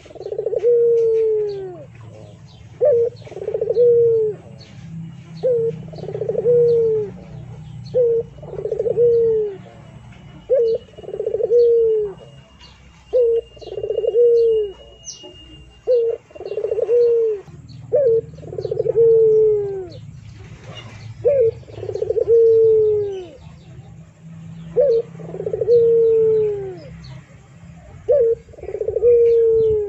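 A bird repeating a two-part call over and over: a short note, then a longer note that falls in pitch, about every one and a half seconds. Faint high chirps of small birds sound throughout.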